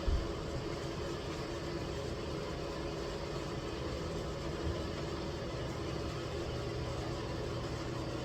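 A steady mechanical hum with a few constant tones, like a running motor or idling engine, with a short low thump just after the start and a lighter one about halfway through.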